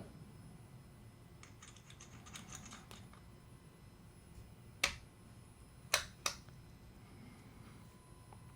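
Small parts of a star drag fishing reel clicking and tapping as it is reassembled: a flurry of faint light clicks, then a sharp click about midway and two more in quick succession a second later.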